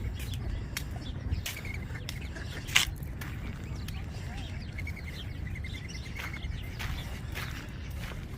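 Small birds chirping on and off over a steady low rumble, with one sharp click a little under three seconds in.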